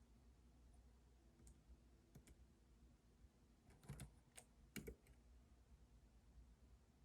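Faint, scattered keystrokes on a computer keyboard: a few isolated clicks, the loudest about four and five seconds in. A faint low rumble runs underneath.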